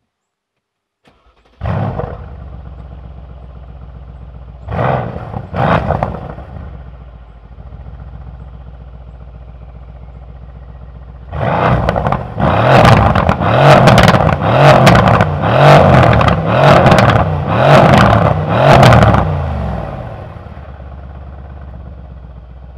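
Mercedes-AMG C63 S Coupe's twin-turbo V8 starting with a loud flare about a second and a half in, then settling to a steady idle. It is blipped twice, then revved about seven times in quick succession, each roughly a second apart, before dropping back to idle.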